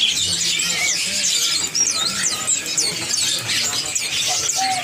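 Many caged small songbirds chirping and twittering at once, a dense overlapping chorus of short, quick, high calls.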